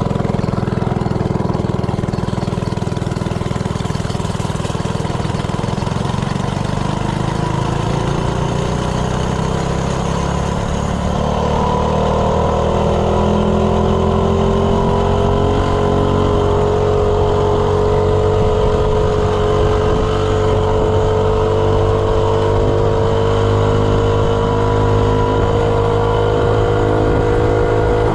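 Coleman CC100X minibike's 3 hp single-cylinder engine at full throttle on a top-speed run, its timing advanced with an offset flywheel key. The pitch climbs steadily for about the first ten seconds as the bike gathers speed, then holds nearly level with only a slight further rise.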